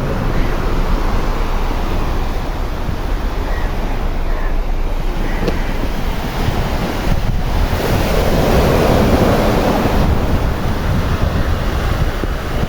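Waves washing on a shore, with wind buffeting the microphone; the surf swells louder about eight seconds in.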